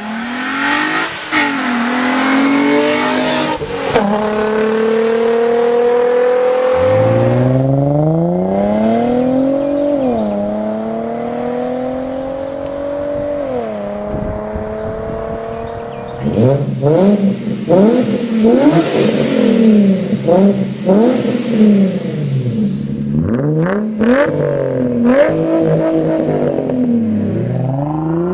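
Infiniti G35's 3.5-litre V6 exhaust: the engine pulls up through several gears, its pitch climbing and dropping back at each shift, then it is revved in a series of quick blips, rising and falling sharply about once a second.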